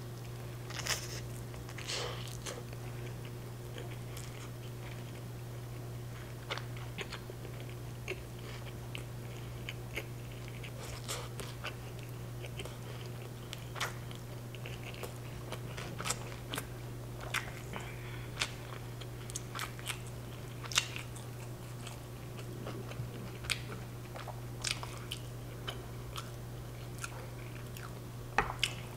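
Close-up chewing of an al pastor street taco, with many sharp crunchy clicks and wet mouth sounds as the pork is chewed at length; the eater later finds the meat hard and dry. A steady low hum runs underneath.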